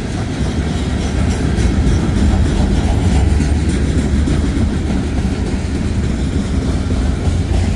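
Freight train cars rolling steadily past close by: wheels running on the rails, with a steady low rumble.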